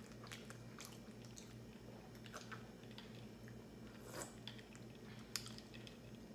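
Soft close-up mouth sounds of chewing pizza, with faint lip smacks and clicks. About four seconds in comes a sip from a glass of iced juice. A faint steady hum runs underneath.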